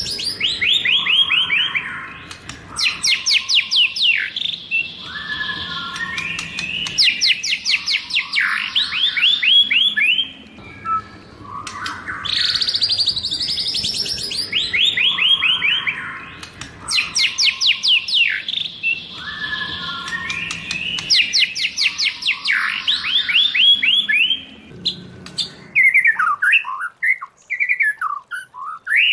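White-rumped shama singing its wild-type song in rapid trills of sweeping whistled notes, one phrase after another, with the same run of phrases heard twice. Near the end come shorter separate whistled notes.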